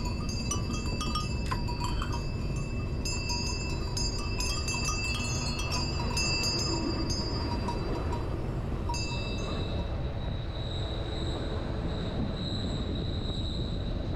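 Train running on the rails, a steady low rumble with high, ringing squeal tones over it. The squeal changes about nine seconds in, becoming a pulsing higher whine.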